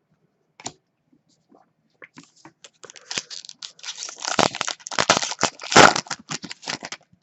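Foil trading-card pack wrapper being torn open and crinkled in the hands, a dense crackling that builds to its loudest in the second half and stops suddenly near the end.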